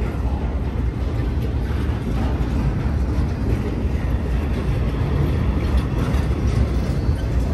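BNSF intermodal freight train of spine cars carrying highway trailers rolling past: a steady low rumble of steel wheels on the rails, with a few faint clicks.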